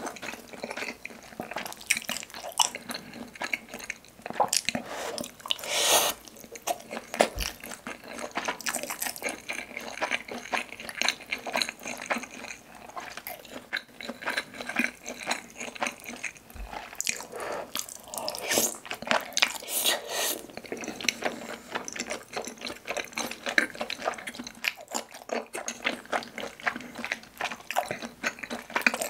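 Close-miked chewing and wet mouth smacking of tteokbokki, chewy rice cakes in thick spicy sauce, in a dense stream of small clicks and squelches.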